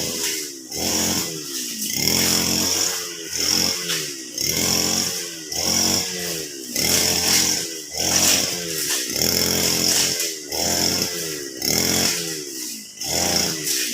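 Petrol brush cutter (grass trimmer) cutting grass, its engine revved up and let drop in a steady rhythm about once a second as the cutter is worked.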